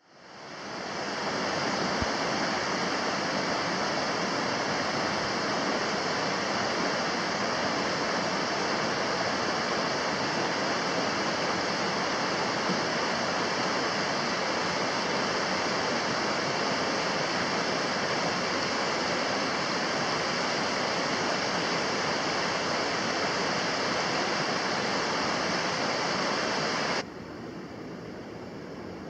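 Mountain stream rushing steadily. The sound fades in over the first second and drops suddenly to a lower level about 27 seconds in.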